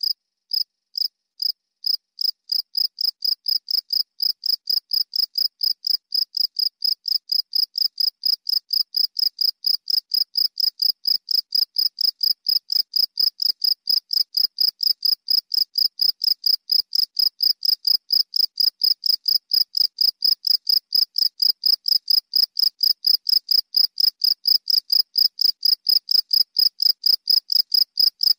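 A cricket chirping: short, clean pulses of a single high pitch, spaced out at first, then settling into a steady rhythm of about three chirps a second.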